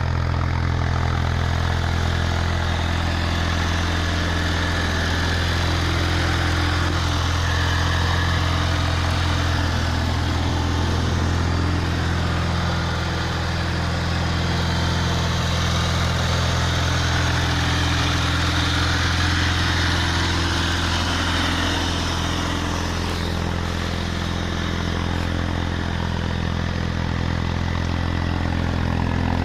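Homemade quad bike's Oka two-cylinder petrol engine idling steadily.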